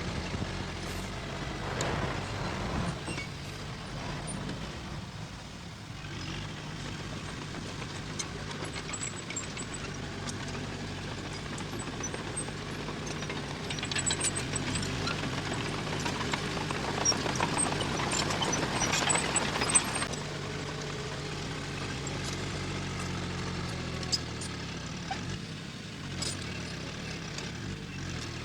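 Diesel engine of earthmoving machinery running steadily, with a louder, noisier stretch of clanks and knocks from about 14 to 20 seconds in.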